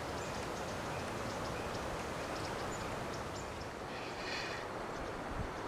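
Steady outdoor background noise with a few faint ticks and a brief high chirp about four seconds in.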